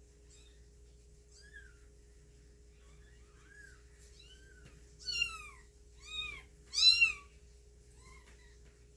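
Cat meowing: a few faint high chirps, then three louder high-pitched meows about five, six and seven seconds in, the last the loudest.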